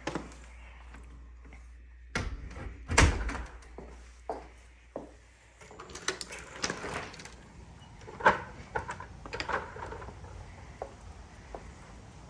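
A door being handled and opened to go outside, with a sharp knock about two seconds in and a louder bang about a second later, then scattered lighter clicks and knocks.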